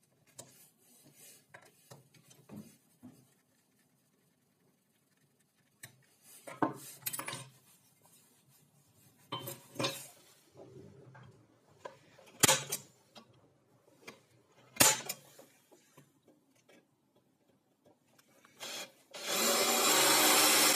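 Workshop handling of wood and metal parts: scattered knocks, clicks and scraping, with a few sharper knocks. Near the end a power tool starts and runs steadily.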